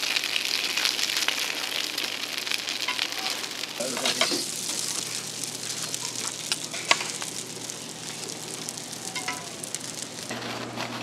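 Pan-fried buns sizzling in hot oil in a wide flat pan, with a metal spatula clinking against them. About four seconds in the sizzle drops to a softer hiss, broken by a few sharp knocks.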